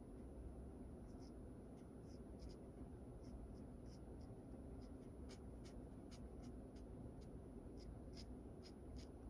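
Short, light strokes of a drawing tool on paper while sketching, coming irregularly at about two a second over a faint steady background hum.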